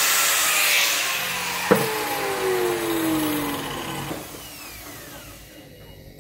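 Power tool running, then a click about two seconds in as it is switched off; its pitch falls and the sound fades as it winds down.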